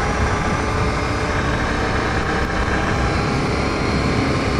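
ATV engine running steadily at a constant speed while riding, with no change in pitch or level.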